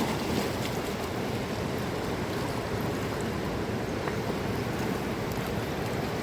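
Steady rush of a mountain river's flowing water, an even noise with a few faint ticks.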